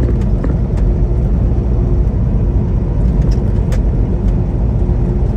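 Tractor-trailer cab noise on the move: a steady low rumble of the diesel engine and road noise, with a steady hum and a few faint ticks.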